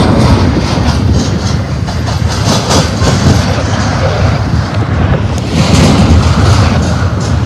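Double-stack intermodal well cars of a freight train rolling past at close range: a loud, steady rumble of steel wheels on rail, with a running series of clicks and knocks as the wheelsets pass.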